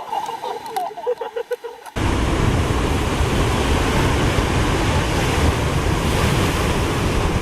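Heavy rushing noise of ocean surf mixed with wind blowing on the microphone, cutting in suddenly about two seconds in and staying loud and steady.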